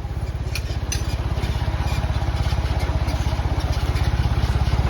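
Tractor engine running with a steady, even low pulse that grows slightly louder, with a couple of brief glass clinks about a second in.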